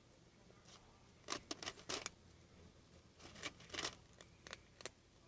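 A cat crunching dry kibble, in two bursts of crackly chewing with a few single crunches near the end.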